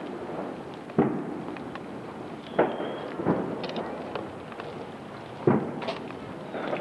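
Fireworks going off: about five sharp bangs spread across the few seconds, each trailing off in an echo, with a brief crackle in the middle.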